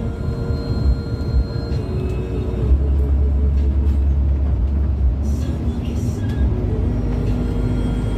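Steady low rumble of an intercity bus on the move, heard from inside the cabin, with music playing over it. The rumble swells for a couple of seconds near the middle.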